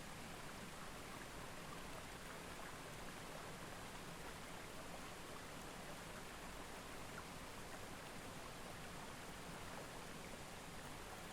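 Faint, steady outdoor ambience: an even hiss with no distinct events.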